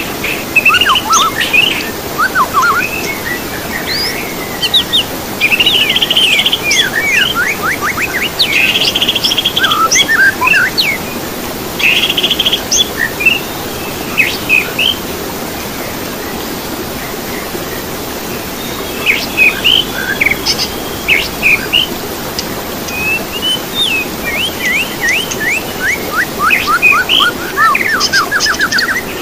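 Songbirds chirping and trilling in quick runs of sweeping notes, with a lull of a few seconds about halfway through, over a steady background hiss.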